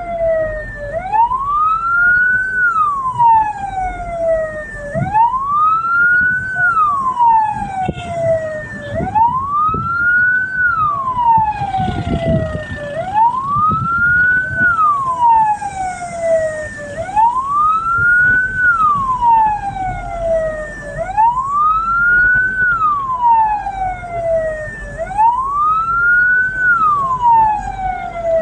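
Hearse siren wailing: each cycle rises quickly and then falls slowly, repeating about every four seconds, over a low vehicle rumble.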